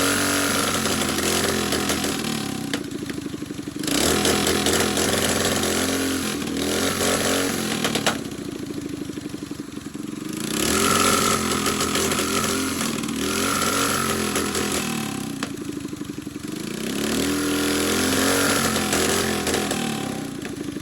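Mini bike's small single-cylinder four-stroke engine running just after startup, on its previous carburetor jetting, before the jet is changed. The engine speed rises and falls back about four times, with lower stretches in between.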